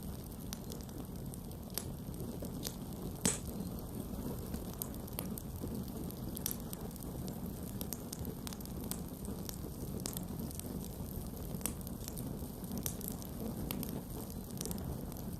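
Campfire burning with a steady low rumble and irregular sharp crackles and pops of the wood, the loudest pop about three seconds in.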